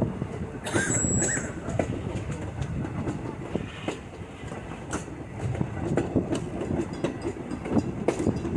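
Railroad passenger car rolling along the track: the wheels clack and the car knocks and rattles in an irregular rhythm. There is a brief high squeak about a second in.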